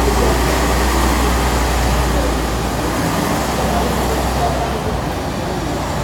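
Road traffic with a vehicle's low engine rumble that cuts off about five seconds in, over steady street noise and background voices.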